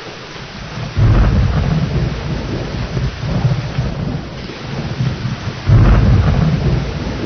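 Steady rain with thunder rolling through it: a low rumble breaks in suddenly about a second in and fades, and a second, louder roll comes near the end.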